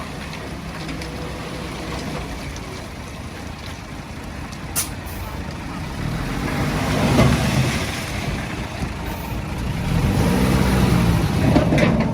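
Heavy diesel earthmoving engine running under load, revving up and back down twice in the second half, with a brief sharp click about five seconds in.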